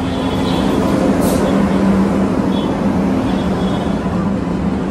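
A train at a busy railway station below: a steady low hum over station noise, with a short hiss about a second in.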